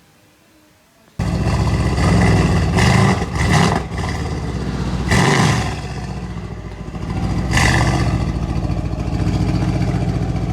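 Mercedes-AMG C63 S engine through an aftermarket Fi Exhaust, coming in suddenly about a second in, then revved in several short blips that rise and fall before settling to a steady idle.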